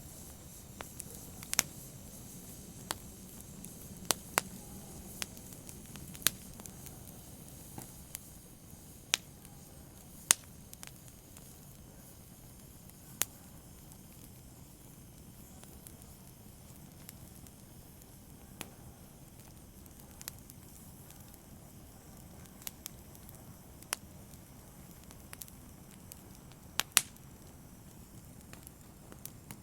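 Open fire crackling: irregular sharp pops and snaps over a low, steady hiss of burning, with a close pair of louder pops near the end.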